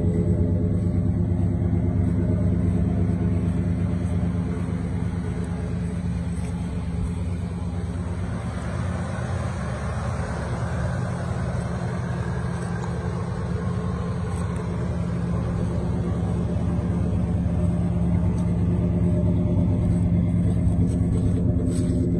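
1970 Buick Skylark's 350 V8 idling steadily, its deep note coming through dual exhaust. Around the middle the low exhaust note drops back and a lighter, hissier engine sound comes up. The deep note is strong again near the end.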